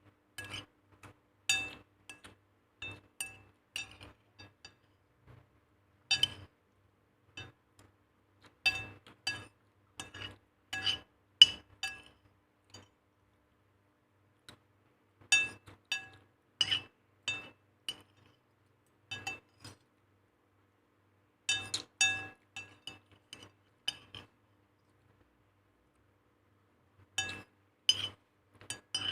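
Spoon clinking and tapping against a ringing cooking vessel, as in stirring or scooping food, in runs of quick strikes broken by pauses of a second or more.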